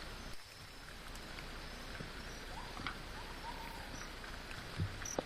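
Steady patter of rain, with a few short high chirps around the middle and a couple of sharp knocks near the end.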